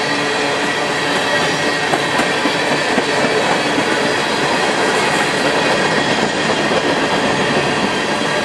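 Train cars rolling past on the rails: steady, loud wheel-and-rail noise with a faint high tone running through it.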